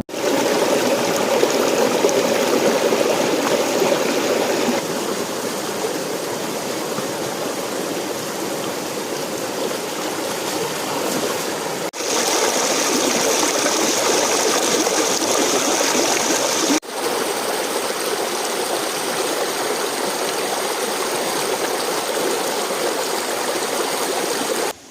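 Forest creek water flowing steadily over rocks in a continuous rushing. It dips out briefly twice, about halfway and about two-thirds of the way through, and the tone of the rushing shifts a little each time.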